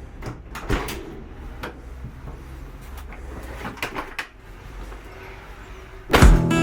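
Scattered clicks and knocks, like things being opened, shut or handled, over a low hum; strummed acoustic guitar music comes in loudly near the end.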